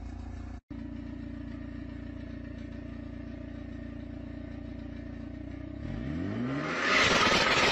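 Ford Focus hatchback engine idling with a steady low hum, then revved hard near the end: the pitch sweeps up and the engine and exhaust grow much louder and rougher.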